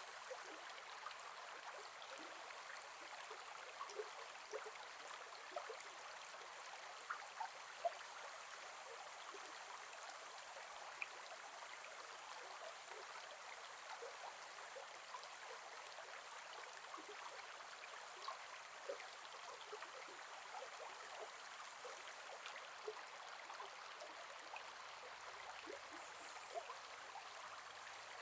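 Gentle forest river flowing, a steady soft rush of water with many small plinks and gurgles scattered through it.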